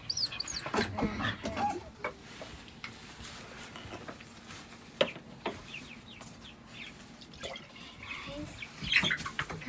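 Young Sapphire Gem chickens cheeping in short high chirps at the start and again near the end. A few sharp knocks of handling come in between, the loudest about five seconds in and another just before nine seconds.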